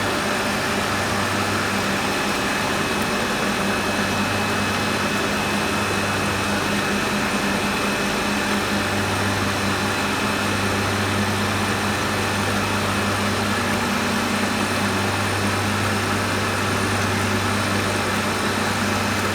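Automatic soy milk machine's electric motor running steadily, a constant low hum under an even whirring noise.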